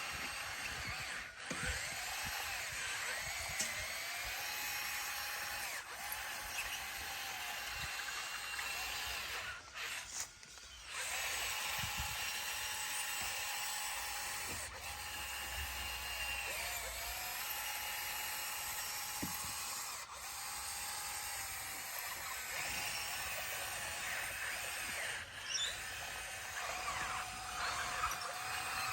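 Bulldozer working, its engine and drive giving a high whine that rises and falls in pitch as the load changes, with a brief dip about ten seconds in.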